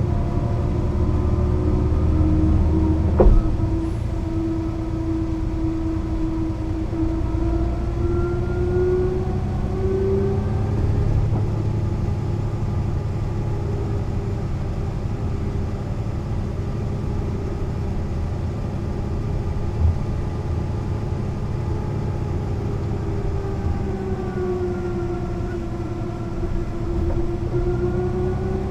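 Mercedes-Benz O 405 NÜ bus's diesel engine running under way, its pitch rising and falling twice as it speeds up and eases off. A single thump about three seconds in, and a smaller one later.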